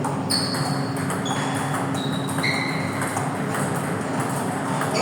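Table tennis balls clicking off bats and tables in quick, irregular rallies, several hits ringing briefly with a high ping, over a steady low hum of hall noise.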